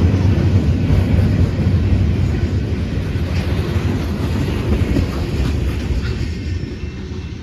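Freight train rolling past: a steady low rumble that slowly fades.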